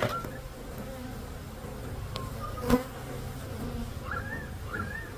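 Honeybees buzzing steadily around an open hive, with one sharp knock about two and a half seconds in and two short high chirps near the end.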